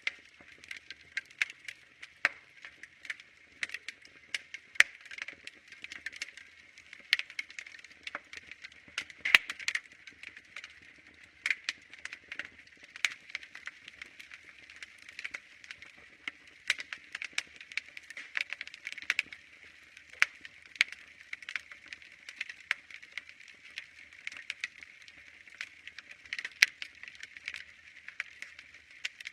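Wood fire crackling, with frequent sharp pops and snaps over a soft hiss.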